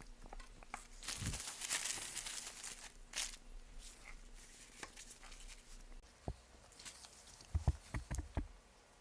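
Rustling and crinkling handling noise, followed later by a few soft knocks and thumps.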